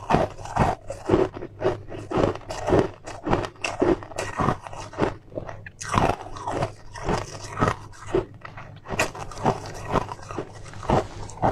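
Close-miked chewing of a crunchy food, with a crisp crunch about twice a second.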